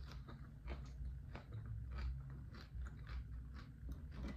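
Close-miked chewing of a mouthful of romaine lettuce taco wrap: irregular crunches and wet mouth clicks, a few a second.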